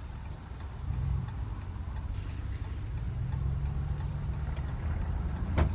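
Ram pickup heard from inside the cab: a steady engine and road hum that picks up about a second in, under the even clicking of the turn-signal indicator as the truck turns. A single sharp knock comes near the end.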